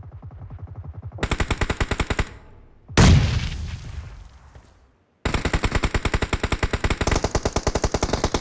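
Video-game automatic gunfire, rapid shots at about a dozen a second, growing louder after about a second. About three seconds in there is one loud, deep blast that fades away over about two seconds. After a brief silence the rapid fire starts again and runs on.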